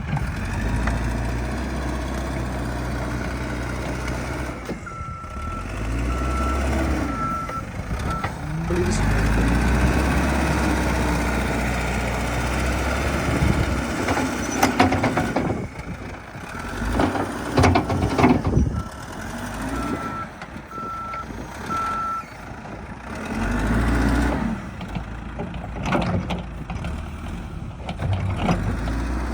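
Heavy snow-clearing machine running with a low engine rumble, its reversing alarm beeping in two short runs of evenly spaced beeps, with a few loud knocks in between.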